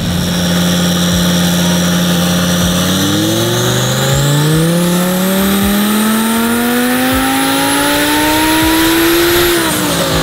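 Twin-turbocharged Audi R8 V10 making a wide-open-throttle pull on a chassis dyno. The engine holds steady revs for about three seconds, then climbs smoothly for about six seconds with a high whine rising alongside, and drops off sharply near the end as the throttle is lifted. It is a power run on a freshly flashed, higher-boost calibration.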